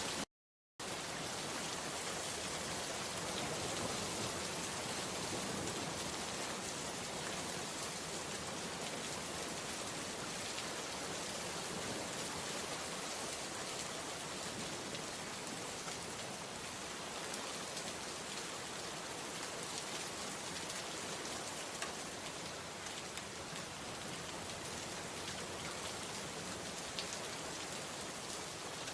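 Steady rain falling, an even hiss with scattered faint drop ticks. The sound cuts out completely for about half a second just after the start, then resumes unchanged.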